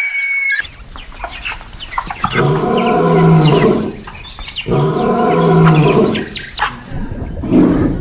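An animal giving two long, loud calls about a second apart, with short chirps sounding around them.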